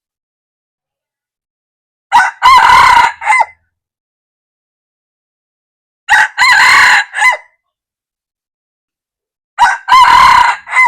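Red junglefowl cock crowing three times, about four seconds apart; each crow is a short opening note, a longer drawn-out note and a brief clipped tail.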